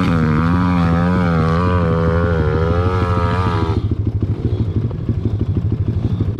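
Pit bike's single-cylinder engine revving up sharply and held at high revs for about four seconds, its pitch wavering under load, then dropping to a low, uneven putter as the throttle is shut off.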